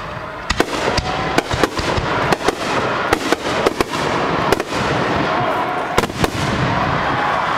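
Aerial firework shells bursting in quick succession: a rapid run of sharp bangs, two or three a second, over the echoing rumble of earlier bursts.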